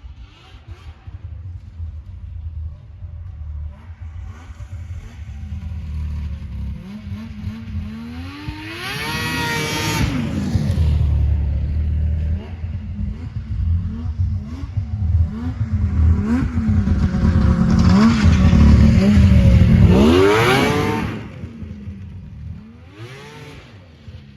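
Yamaha V-Max three-cylinder two-stroke snowmobile engine revving hard through full-throttle launches. Its pitch climbs steeply about nine seconds in, and again, loudest, around twenty seconds in, then cuts off abruptly, followed by a short blip of revs. These are hard launches meant to show whether the track, just brought back into adjustment, still skips or ratchets in the chain case.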